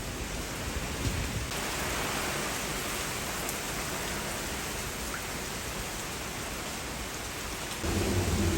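Heavy typhoon rain pouring down in a steady hiss. Near the end a louder low rumble sets in.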